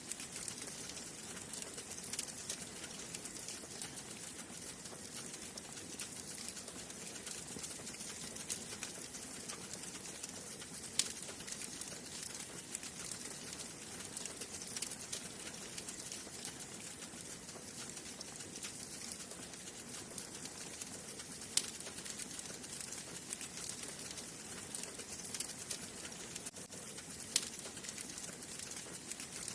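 Wood fire burning in a fireplace: a steady hiss with continual small crackles and now and then a sharper pop, loudest about 11, 22 and 27 seconds in.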